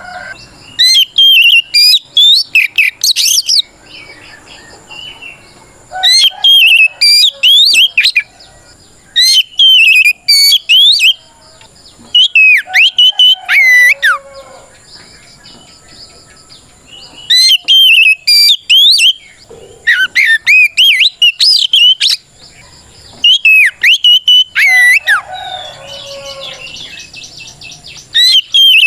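Oriental magpie-robin (kacer) singing loud, open fighting song that calls out a rival. It comes in about eight bursts of fast, sweeping whistled notes, each a second or two long, with short pauses between them.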